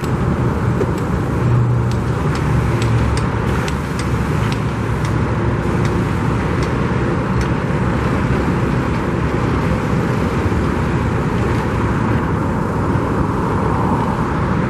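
Steady road traffic noise of passing cars, with a string of faint sharp clicks through the first half.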